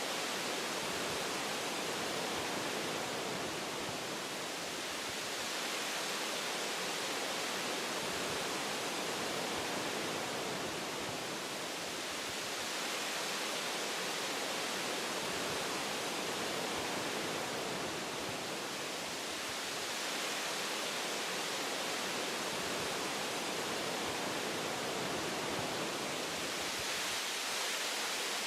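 Wind blowing through tree branches: a steady rushing hiss that swells and eases gently every several seconds.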